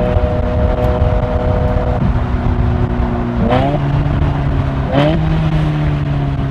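Ferrari V8 engine running on the road at steady revs, with two quick sharp rises and falls in engine pitch, about three and a half and five seconds in.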